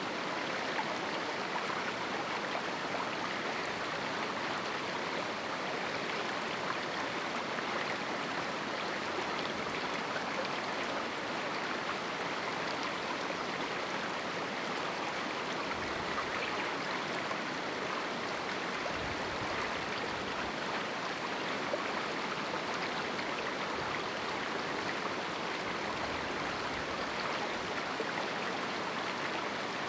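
Small river running through a rocky canyon: steady, even rushing of flowing water.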